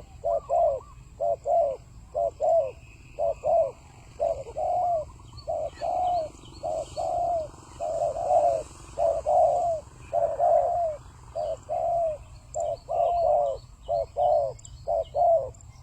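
Spotted dove cooing repeatedly: a steady run of short, down-curving coos in quick groups of two or three. Faint, high chirps of small birds are heard alongside.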